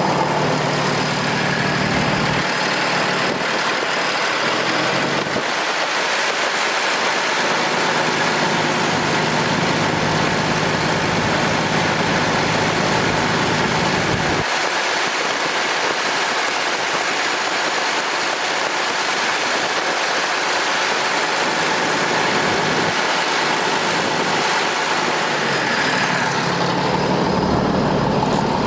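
Cummins ISL diesel engine of a Freightliner water truck idling steadily.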